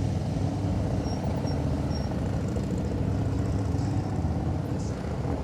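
Police motorcycle engine running steadily at low speed on a cone course. Three short high beeps sound about a second or two in.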